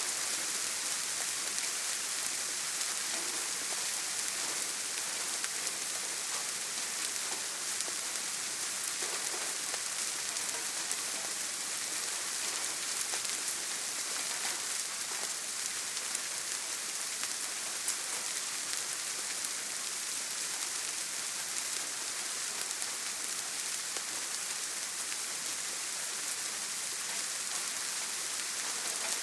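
Steady heavy rain drumming on a tin roof: a dense, even hiss of countless drops with fine pattering, and no thunder.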